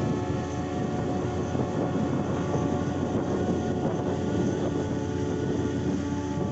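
A steady mechanical drone, like a vehicle's engine running at constant speed, with a rumbling noise under several held tones.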